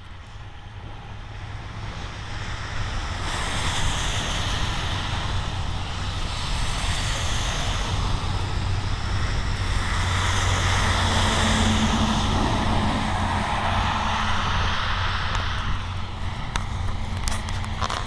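A passing engine-driven vehicle: a broad engine and motion noise that swells over a few seconds, holds for about ten seconds, and fades near the end, over a steady low hum.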